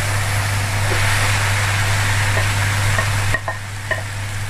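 Okra and spice masala sizzling in a nonstick kadhai, a steady frying hiss over a steady low hum. The hiss cuts off abruptly a little over three seconds in, and a few light clicks follow as cubes of boiled potato go into the pan.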